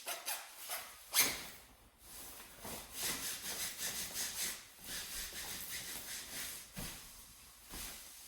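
A jacket worked by hand for its sounds: fabric rubbed and swished in a run of short scratchy strokes, one sharp one about a second in and a quick busy patch of about three to four strokes a second in the middle.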